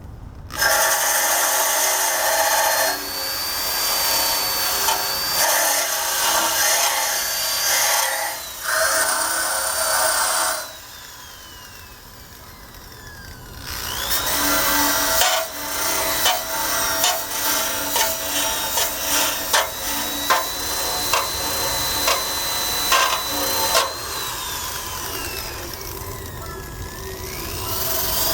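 Power drill with a wire brush spinning against the steel undercarriage of a Honda Cub frame, scouring off rust and old paint. It runs in two long passes with a quieter pause of a few seconds in between. The second pass is full of sharp scratchy ticks, and the sound tails off near the end.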